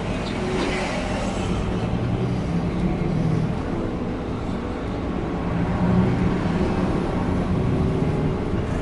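Coach bus on the move: steady engine drone with road and tyre noise, the engine note wavering slightly.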